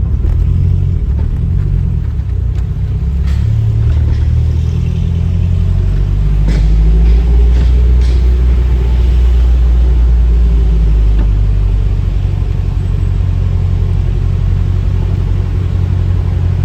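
Low, steady engine rumble of a running vehicle, its pitch shifting a few times.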